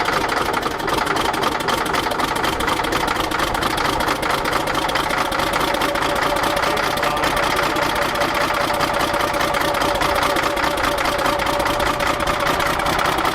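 Caterpillar D6D dozer's Cat 3306 six-cylinder diesel running steadily just after a first start from a long sit, not yet firing on all six cylinders.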